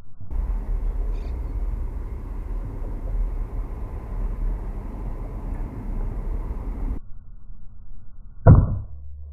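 A steady low rushing noise cuts off suddenly about seven seconds in. Near the end comes a single sharp crack of a shot from a .22 PCP air rifle (Taipan Veteran Short).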